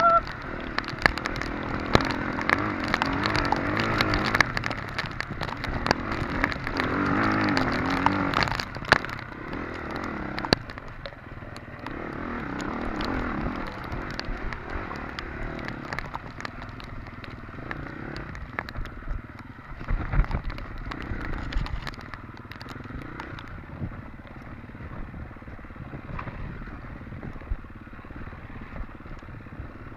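Off-road dirt bike engine revving up and down over rough ground, with clatter and knocks from the bike. The engine is louder for about the first nine seconds, then runs quieter.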